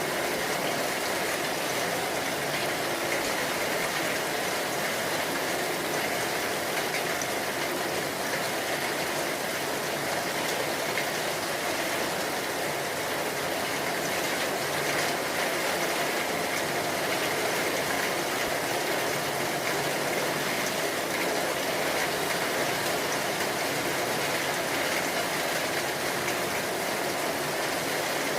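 Rain falling steadily: an even, unbroken hiss with no thunderclap.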